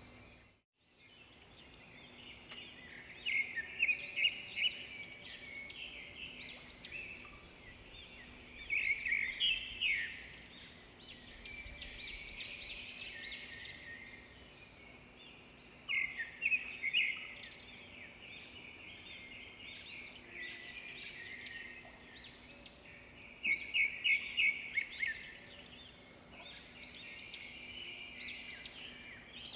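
Several small birds singing and chirping together in a continuous chorus, with louder bursts of quick repeated high notes every several seconds. The sound cuts out briefly just under a second in and fades back up.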